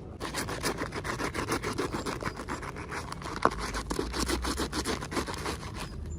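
Quick repeated scraping strokes, about five or six a second, with one sharper click about halfway through.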